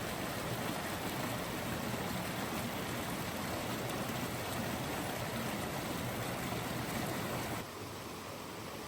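Rushing water: a steady, even rush that drops a little in level near the end.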